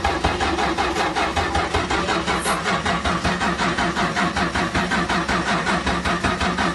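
Car engine cranking over on the starter motor in a steady rhythmic chug without catching. It is a hard start, which the driver puts down to flooding the engine by pumping the gas pedal.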